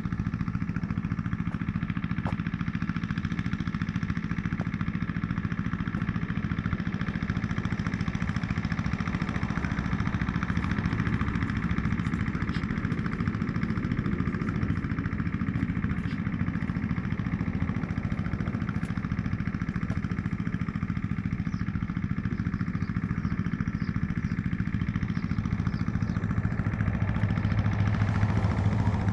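BMW R1200GS boxer-twin engine running steadily at low revs; near the end a deeper hum from the engine grows louder.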